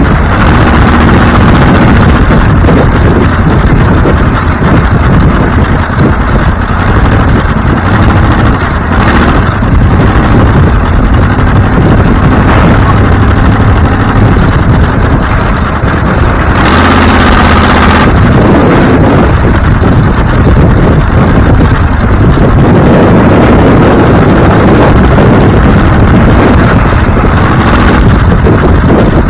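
Loud, steady engine and road noise from a moving vehicle. A brief burst of hissing rush comes about two-thirds of the way through.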